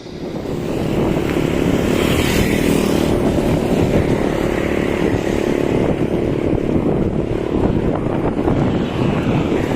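Wind buffeting the microphone during a ride, over steady vehicle and road noise.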